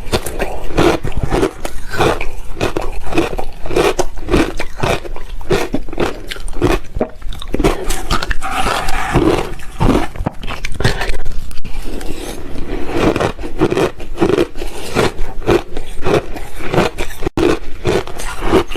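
Ice being bitten and chewed close to the microphone: a continuous run of loud, irregular crunches and scraping.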